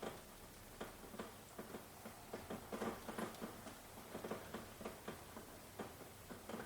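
Rain falling: a soft steady hiss with irregular drops tapping and ticking on a hard surface, several a second.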